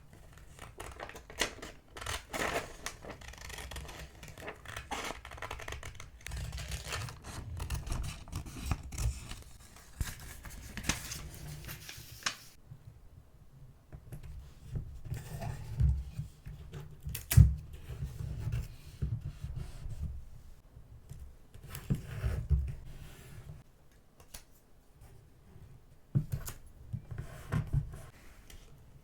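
Close-up paper-crafting sounds: sheets of paper and die-cut pieces rustling, scraping and tapping in irregular bursts, with snips and scratches as they are cut and handled.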